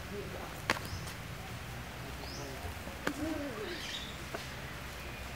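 A few short, high bird chirps about a second or so apart, with two sharp clicks and a brief low call about halfway through.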